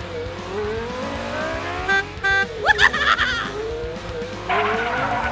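Background music with cartoon-style vehicle sound effects: an engine-like whine that rises in pitch again and again, two short beeps about two seconds in, and quick upward whistle slides just after.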